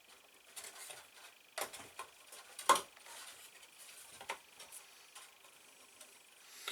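Scattered light clicks and taps of small wooden model-airplane parts being handled and fitted on a workbench, the loudest knock about two and a half seconds in.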